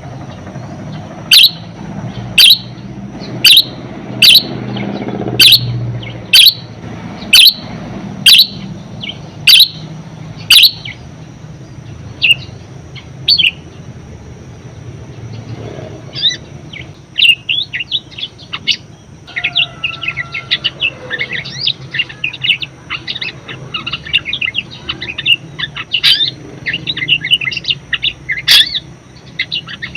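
Budgerigar calling: loud, sharp chirps about once a second for the first ten seconds or so, then from about sixteen seconds in a fast, continuous chattering warble.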